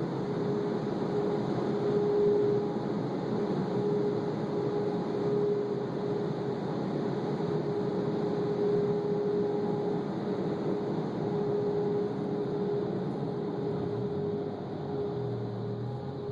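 Automatic car wash machinery running, a steady hum with a constant whine that eases off slightly near the end.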